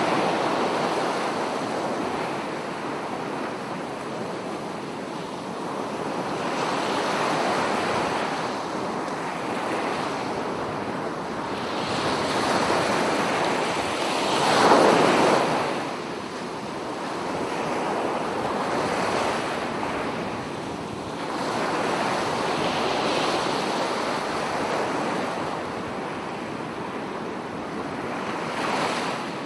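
Ocean waves breaking and washing on the shore, swelling and ebbing every few seconds, with the loudest wave crashing about halfway through.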